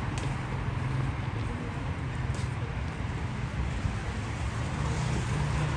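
Steady low rumble of a car engine running at idle over road traffic noise, with a faint click near the start and another about two seconds in.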